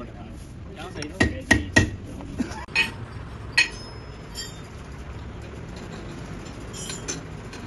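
Metal parts or tools knocking and clinking together: three sharp clanks in quick succession a little over a second in, two more a second or two later, some with a short metallic ring, over a low steady workshop hum.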